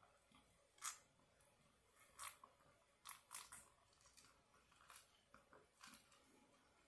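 A person eating and chewing crunchy food, with about half a dozen short, crisp crunches spread out; the sharpest comes about a second in.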